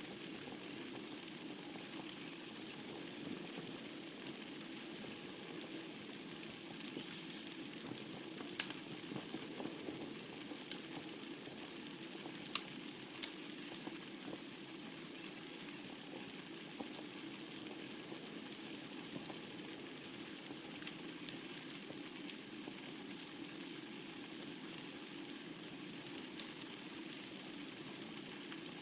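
Wood fire burning in a fireplace: a steady soft crackle and hiss, with a few sharp pops of the burning logs, the loudest about 9 seconds in and again around 12 to 13 seconds in.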